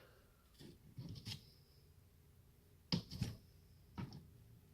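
A few faint clicks and clatters of small hard tools being handled, a couple of them with a brief metallic ring, as a screwdriver bit of the right size is hunted for.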